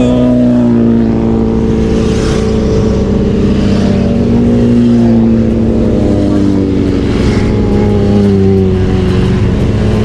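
Motorcycle engine running on the road, its note drifting slowly up and down with the throttle.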